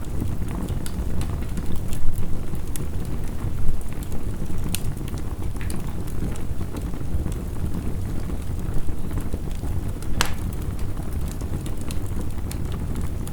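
Heavy rain with a crackling wood fire: a steady low rumble of noise, with scattered sharp pops and crackles, the loudest about ten seconds in.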